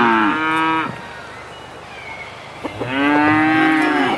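Cattle mooing in long calls: one moo fades out about a second in, and another loud moo starts near the three-second mark, with several calls at different pitches overlapping.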